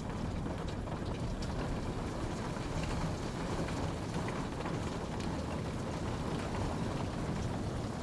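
Steady rainfall, a continuous even patter with scattered individual drops ticking on a surface.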